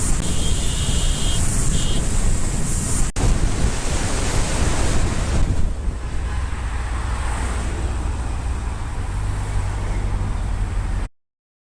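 Wind noise rushing over a moving motorcyclist's camera microphone, with road and engine noise underneath. The sound drops out for an instant about three seconds in and cuts off suddenly near the end.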